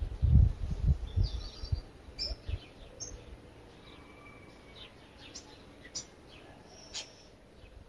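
Small birds chirping and calling in short high notes scattered throughout, with one thin held whistle about halfway through. A low rumbling noise, the loudest sound here, comes and goes during the first two seconds.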